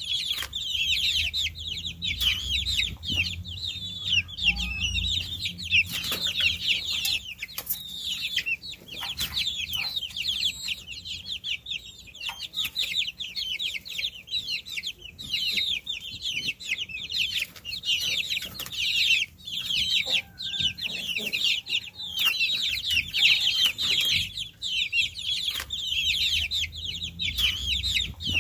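A brood of baby chicks peeping continuously, many high-pitched chirps overlapping in a dense chorus.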